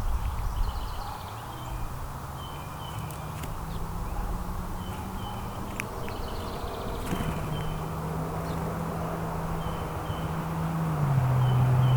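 Small songbirds giving short, repeated chirps, with a few sharp ticks. Under them is the low hum of a passing engine, which drops in pitch twice and grows louder near the end.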